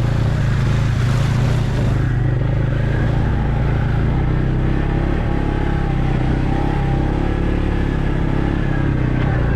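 Off-road vehicle engine running steadily at an even pace, with no change in revs.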